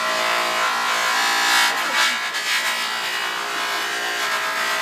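Buffing wheel on a polishing motor running steadily, with a metal piece held against it: a constant hum under a rubbing hiss.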